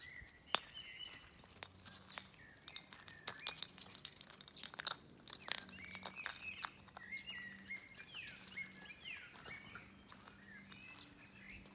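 Small birds chirping and warbling throughout, over a scatter of sharp, light clicks and taps, the loudest about half a second in.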